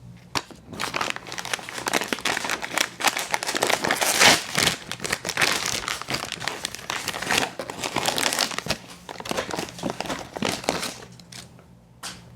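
Plastic wrapper crinkling and tearing, with dense crackling that dies away near the end and one last click.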